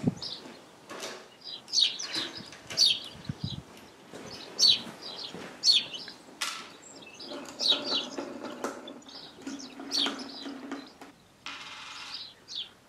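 A small bird chirping over and over, short high falling chirps about once a second, with a few light clicks of tools and small metal parts.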